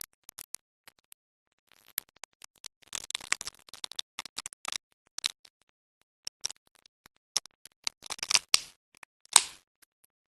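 Irregular sharp clicks and taps, bunched into short clusters about three, eight and nine seconds in.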